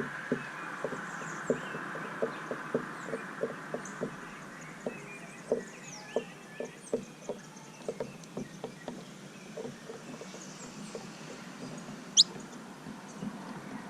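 Small birds feeding at a seed feeder: a steady string of short taps, two or three a second, with faint chirps above them. One loud, quick upward chirp about twelve seconds in.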